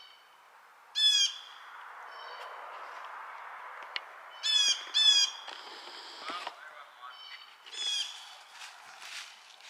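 A bird calling in the woods: four loud, short calls, one about a second in, two close together a little past the middle and one more near the end, with fainter calls in between.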